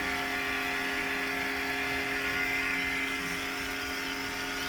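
Motor of car-wash equipment running steadily: an even hum with a hiss over it.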